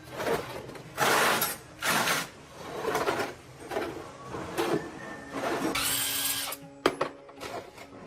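Workshop tool noise: a string of short, irregular bursts of a tool working, one longer and brighter about six seconds in, then a single sharp knock just before the end.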